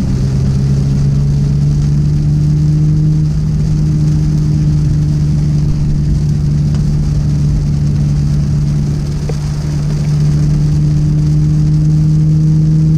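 A 2020 Toyota Supra's turbocharged inline-six, heard from inside the cabin while the car cruises at moderate speed on a wet road: a steady low engine drone over a hiss of tyre and rain noise.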